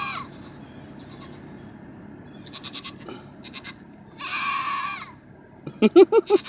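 Pygmy goat screaming: one loud, long, high-pitched yell about four seconds in, with the end of another yell at the very start. Fainter short bleats come in between, and near the end a rapid run of lower pulsing calls.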